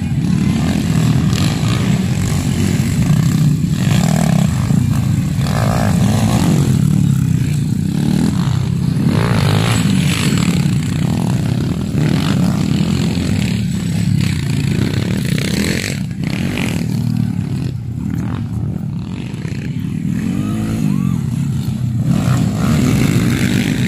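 Motocross dirt bike engines running hard as the bikes race, their pitch rising and falling with the throttle.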